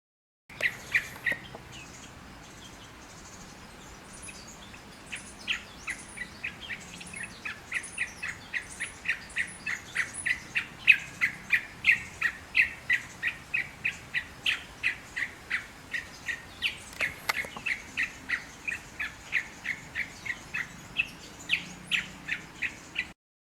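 A bird calling in the wild: a long, steady series of short, sharp notes repeated about three times a second, with fainter high notes from another bird behind it.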